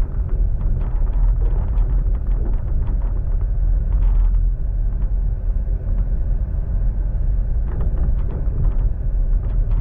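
The Overland passenger train running along the line: a steady low rumble of wheels on rail, heard from inside a carriage, with scattered light clicks and rattles.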